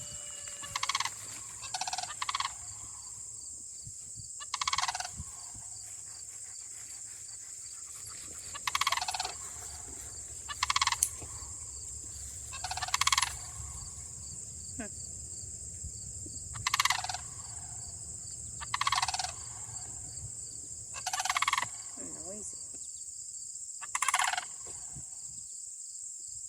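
A pair of sandhill cranes calling back and forth: loud, noisy calls in short bouts about every two seconds.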